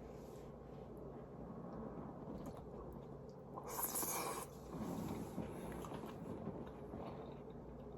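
Faint sounds of a person eating a mouthful of rice with bell peppers, with one brief louder, hissy scrape or bite about four seconds in.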